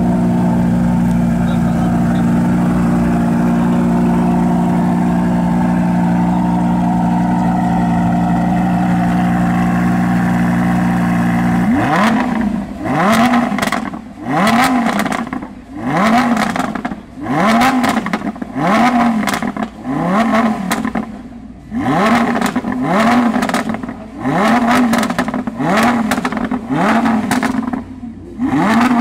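Lamborghini Huracán's 5.2-litre V10 running at a steady idle, then blipped in a string of about fourteen short revs, roughly one a second, each rising and falling in pitch. The revs start about twelve seconds in.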